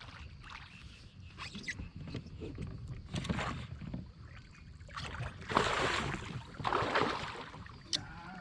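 Water splashing and sloshing around a fishing kayak in a few separate bursts, the loudest a little past halfway, over a steady low rumble of wind on the microphone, with a sharp click near the end.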